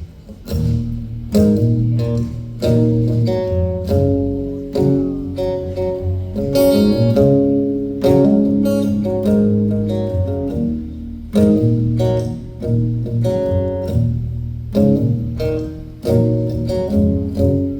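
Instrumental intro of a song, led by strummed acoustic guitar chords in a steady rhythm.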